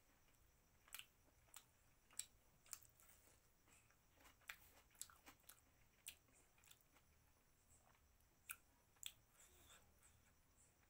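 A person chewing a mouthful of mutton close to the microphone: about a dozen sharp, irregular mouth clicks and smacks, with quiet stretches between them.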